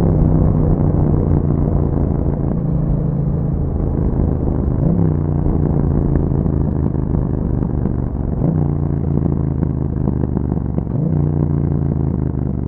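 Yamaha MT-07's 689 cc parallel-twin engine running through an Akrapovic exhaust at steady revs under way. Its pitch dips briefly and picks back up about four, eight and a half, and eleven seconds in.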